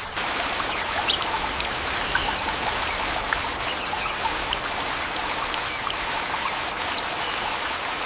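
Steady rain, a dense even hiss with scattered drop hits, starting sharply and cutting off abruptly.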